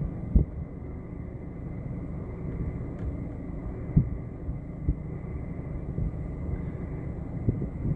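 Low steady rumble of a car heard from inside the cabin, with a few soft thumps scattered through.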